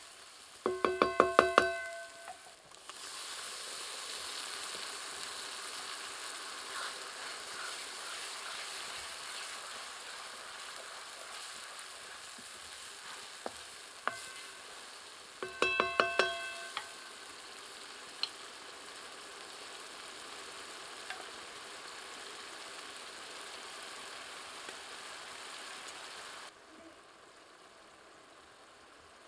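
Masala sizzling in a steel wok over a wood fire. Twice, about a second in and again about halfway, comes a quick run of knocks on the wok that makes its metal ring. The sizzling drops away sharply near the end.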